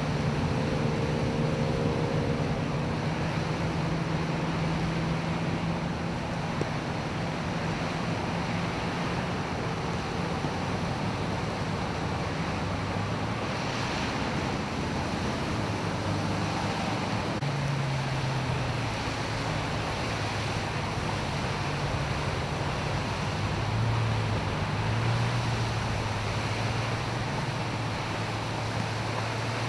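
Steady rush of floodwater, with the low hum of vehicle engines running through it and shifting in pitch now and then.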